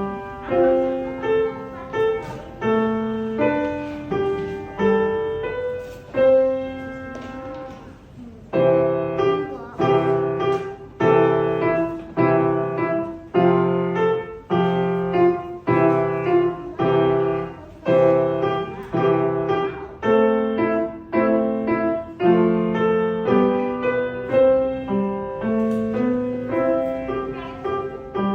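Solo piano playing a simple melody over steady chords, with a softer passage near the first third before the rhythmic chords return.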